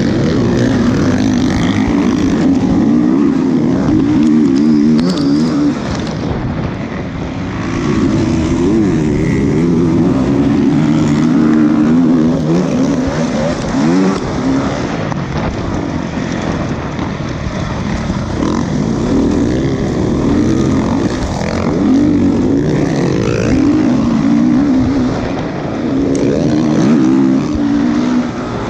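Motocross motorcycle engines running on a track, their pitch rising and falling over and over as the riders rev and back off.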